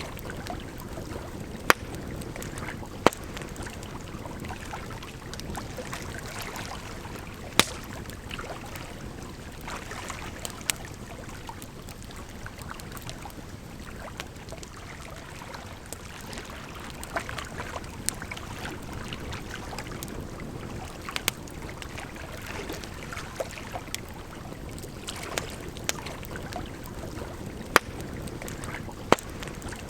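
Campfire crackling, with sharp pops every few seconds at irregular intervals, over a steady rushing of water.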